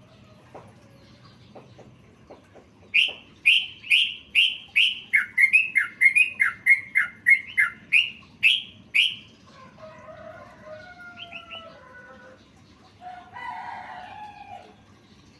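Yellow-vented bulbul (trucukan) song: a fast run of loud, sharp repeated notes lasting about six seconds, followed by quieter chattering twitters twice near the end.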